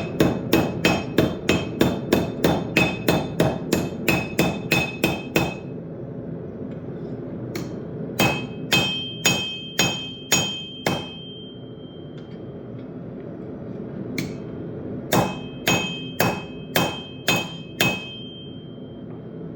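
Hand hammer striking hot steel on an anvil while forging a railroad knife, each blow ringing. A fast run of about three blows a second, then a pause, then shorter bursts of blows with a single strike between them.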